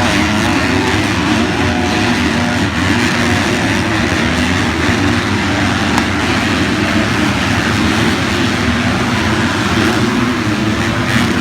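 Motocross bike engines running hard, their pitch wavering up and down as the throttle is worked, under a steady rushing noise.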